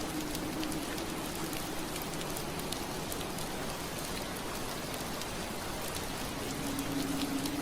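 Steady rain on window glass, many small drops tapping through an even hiss. A low steady hum comes in near the end.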